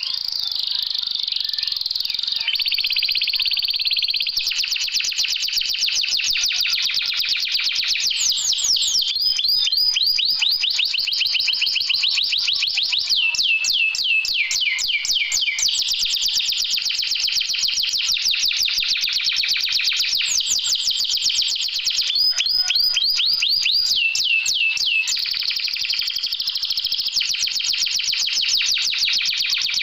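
Domestic canary singing continuously: long, very fast trills and rolls, broken by runs of quickly repeated falling notes.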